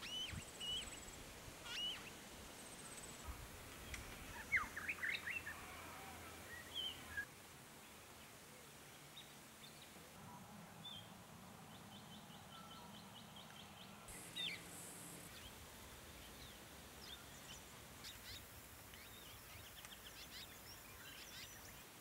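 Wild birds calling: scattered short chirps and call notes over faint outdoor background, loudest in a quick cluster of notes about five seconds in, with a rapid run of ticking notes about two-thirds of the way through.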